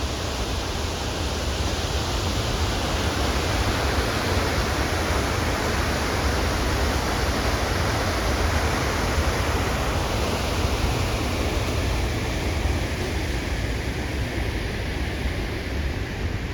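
A steady, even rushing noise with a strong low rumble, holding a constant level, easing a little in the upper range near the end.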